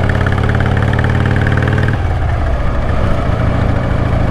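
Motorcycle engine idling steadily, its note shifting about two seconds in.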